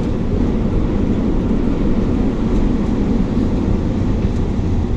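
Steady low rumble of a bus's engine and road noise, heard from inside the passenger cabin while it drives.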